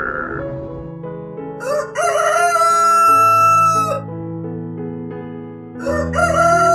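Rooster crowing twice: each crow is a long call with a short rising start and a long held note, the second beginning near the end. Background music plays under it.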